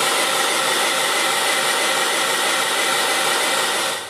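Loud steady rushing of air from a fan or blower motor, with faint steady tones in it, which cuts off abruptly near the end.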